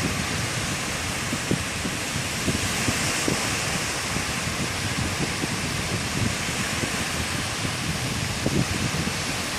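Sea surf washing steadily onto a beach, a constant hiss, with sea wind buffeting the microphone in low, gusty rumbles.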